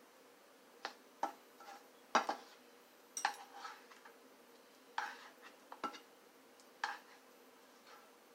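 A metal utensil clinking and scraping against a skillet and plate while Cajun shrimp are spooned onto plated grits: about seven separate, irregular knocks.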